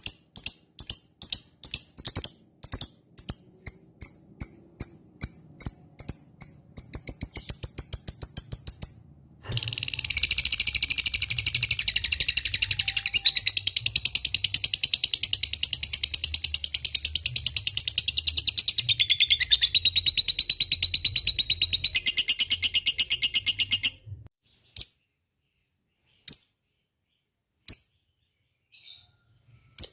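Lovebird calling: sharp high chirps about two to three a second that quicken into a fast trill, then a long rapid chattering trill for about fourteen seconds, the 'ngekek panjang' (long ngekek) that keepers prize. Near the end only a few isolated chirps.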